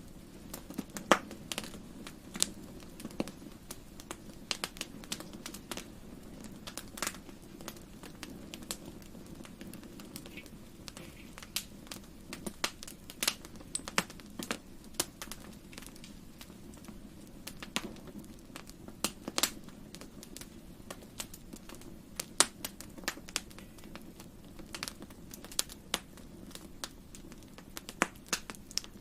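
Wood fire crackling in a fireplace: irregular sharp pops and snaps, a few every second, over a steady low background noise.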